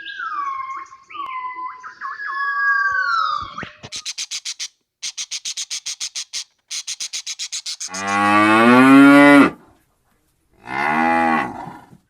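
Cow mooing twice, a long low moo about eight seconds in and a shorter one near the end. These follow a run of high gliding calls and then a fast, even chatter of about ten clicks a second from other animals.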